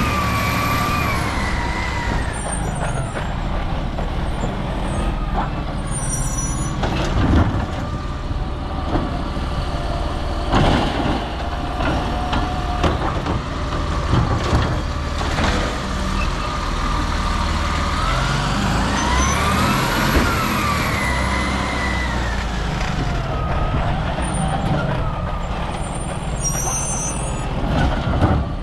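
Autocar Labrie Automizer recycling truck at work: its engine revs up and back down twice as the automated arm cycles, with a run of knocks and clatters in between from a cart being tipped. There are short hisses of air.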